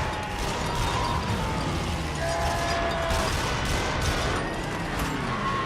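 Warship battle sound effects: rapid gunfire and crashing impacts over a steady low rumble, as the ship is attacked from the air.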